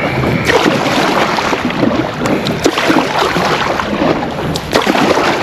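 Wind buffeting the microphone over water sloshing and splashing against a kayak, a loud, steady rush with small irregular splashes.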